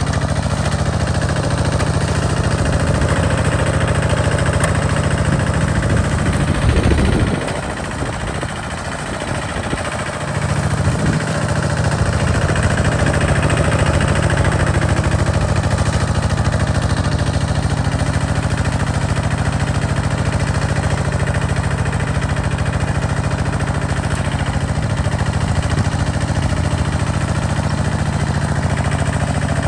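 Single-cylinder diesel engine of a two-wheel walking tractor running steadily while plowing, with a brief drop in its low pulsing drone about a quarter of the way in before it picks up again.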